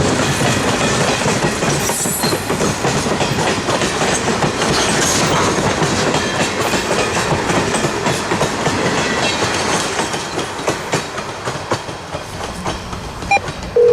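Freight cars of a long freight train rolling past, their wheels clacking over the rail joints. The dense clatter thins out into separate clacks near the end.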